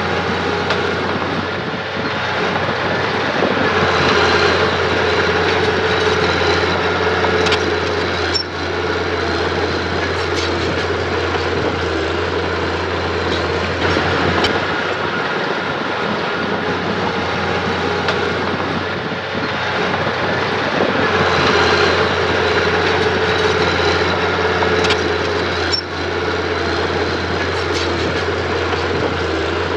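Mini bulldozer's diesel engine running steadily under load, swelling louder twice as it works, with a few short metallic knocks.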